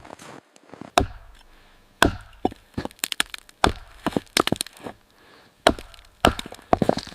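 A quick, irregular run of sharp knocks and cracks, with louder hits about a second in, two seconds in, and twice near the end.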